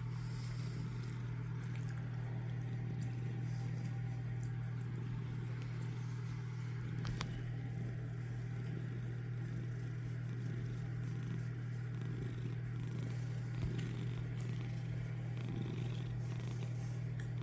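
Domestic cat purring close by, a steady low hum that goes on without a break.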